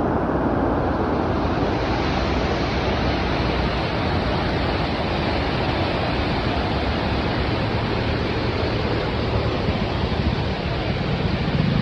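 Bagmati River in flood, a steady loud rush of churning water.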